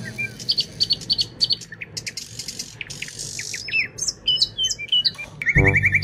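Birds chirping: a quick run of short high chirps, then scattered whistled notes that slide up and down. Music with a low beat comes in near the end.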